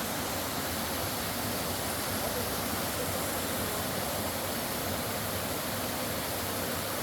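Byeongpung Falls pouring steadily: an even, unchanging rush of falling water.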